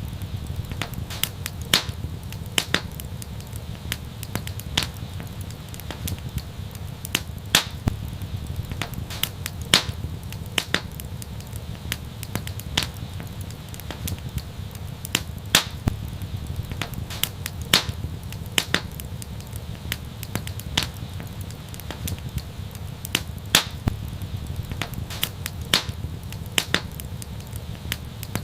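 Wood fire crackling, with irregular sharp snaps and louder pops over a steady low rumble of flame.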